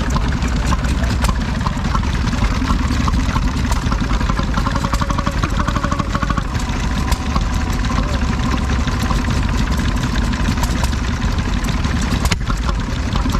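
Vintage stationary engine running steadily, with a rapid run of short knocks over a low rumble.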